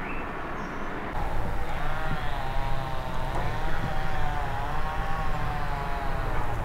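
A motor running with a low rumble and a whine that wavers up and down in pitch, starting about a second in.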